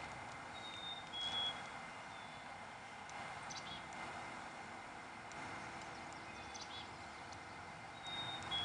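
A songbird whistling a clear two-note call, the second note a little lower than the first. The call comes twice, about a second in and again near the end, with a few faint chirps between, over a soft steady hiss.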